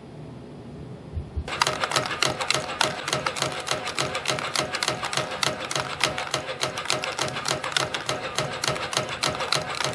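YHM CF-310 CNC spring coiling machine forming variable-diameter compression springs from 0.6 mm wire. A low hum gives way, about a second and a half in, to fast, steady, rhythmic clicking as the machine runs.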